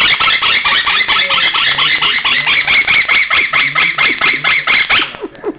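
Parrot screeching loudly in a rapid run of short repeated squawks, several a second, which stops about five seconds in.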